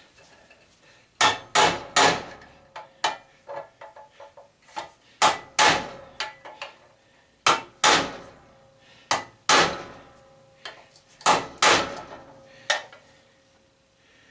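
Hammer blows on metal in groups of two or three, with lighter taps between and a faint metallic ring after the strikes. The hammer is striking the belt/disc sander's drive wheel and shaft, trying to drive out a shaft that stays stuck.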